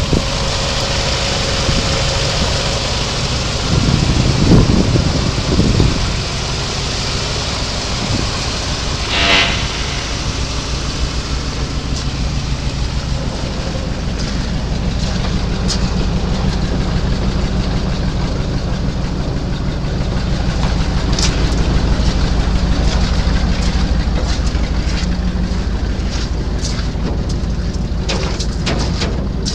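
Gas V-8 engine of a 1984 Chevrolet C60 feed truck running with a steady, even low pulsing. It swells louder for a couple of seconds about four seconds in, and a brief higher squeal comes about nine seconds in.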